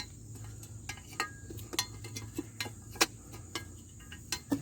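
Light, irregular clicks and taps of parts being handled while routing a wheel-speed sensor cable and fitting a front wheel hub bearing assembly, with a sharper knock about three seconds in and another near the end.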